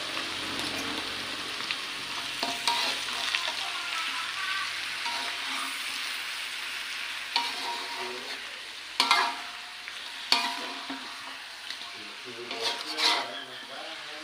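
Fresh squid sizzling in a hot wok as a metal spatula stirs and turns it, with a few sharp knocks and scrapes of the spatula against the pan past the middle and near the end. The sizzle slowly dies down.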